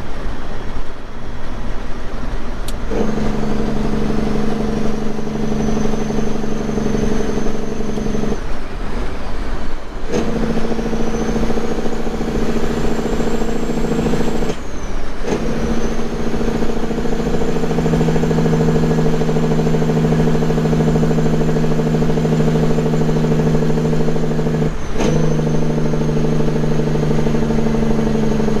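Semi truck's diesel engine droning from inside the cab. The drone starts about three seconds in and breaks off briefly a few times, and a high whine climbs at the start of several stretches.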